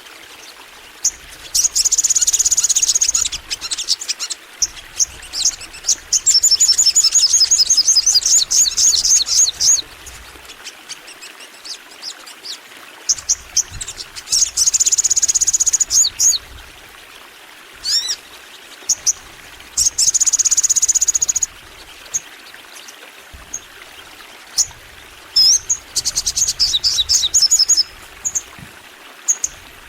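Sogon bird singing: high, fast trilled song phrases, five longer ones of one to four seconds with short chirps scattered between, the loudest and longest phrase starting about six seconds in.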